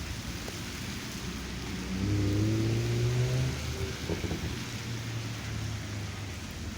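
A car engine driving past, loudest about two seconds in with its pitch rising slightly as it pulls away, then fading to a low hum, over steady wind noise on the microphone.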